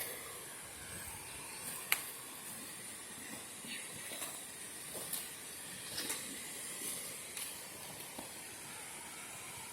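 Steady hiss of rushing water from a waterfall, with scattered faint clicks and one sharp click about two seconds in.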